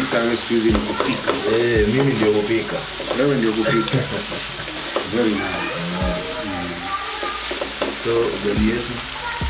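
Pork with carrots and greens sizzling as it fries in a pan, stirred with a wooden spatula that scrapes and knocks against the pan a few times. A wavering pitched background sound runs underneath.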